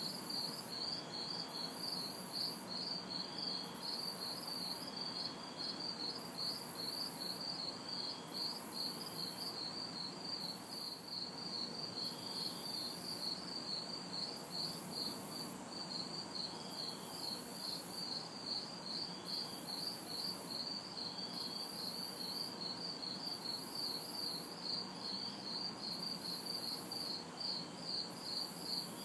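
Night chorus of crickets and cicadas: a steady pulsing trill of several pulses a second, over a very high insect buzz that switches on and off about once a second. Underneath sits a faint low hum of distant city traffic.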